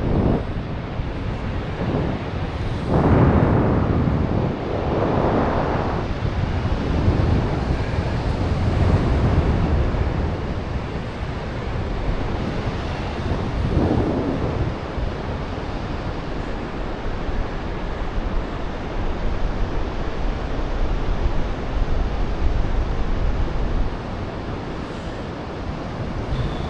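Wind rushing over the microphone in a steady noisy rush, gusting louder a few seconds in and again about halfway through.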